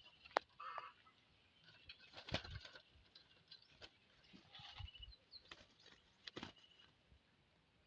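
Faint scattered rustles and clicks, with a few short, soft high chirps in the background.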